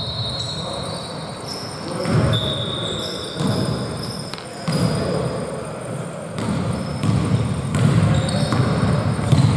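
Live basketball game in a gym: a ball bouncing on the court amid players' movement, with several short high-pitched squeaks of shoes on the floor.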